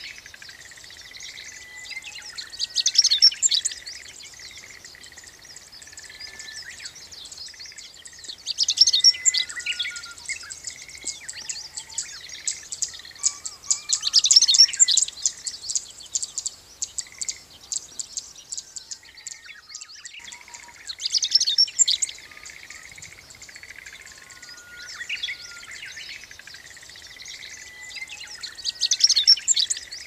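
Birdsong: a songbird repeats a fast, high-pitched twittering phrase five times, about every six seconds, over softer steady chirping from other birds.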